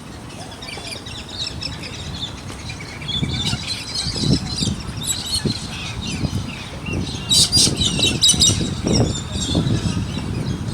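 Birds chirping busily, many short high calls overlapping, over irregular low thumps and rumble.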